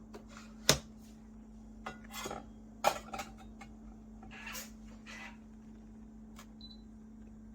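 Hard objects being handled: two sharp clacks and several softer clatters and rattles, like dishes or hard parts being set down and moved, over a steady low hum.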